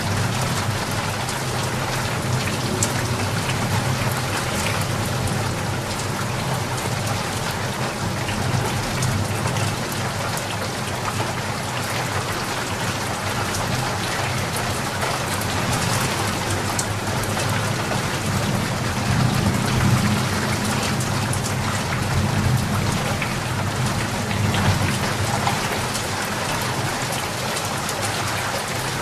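Steady rain falling, with a low rumble underneath that swells about two-thirds of the way through.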